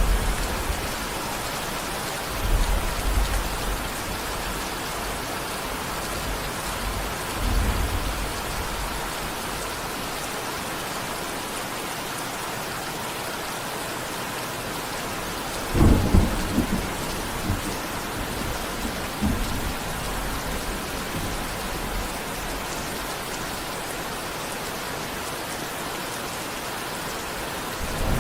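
Steady heavy rain hissing, with thunder rumbling: low rolls about two and a half and seven and a half seconds in, and a sharper, louder clap of thunder with rumbling after it about sixteen seconds in.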